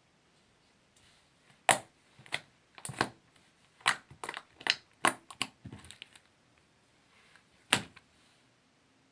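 Sticky slime being squeezed and pulled by hand, giving sharp, irregular clicks and pops: a quick cluster from about two to six seconds in, then one more near the end.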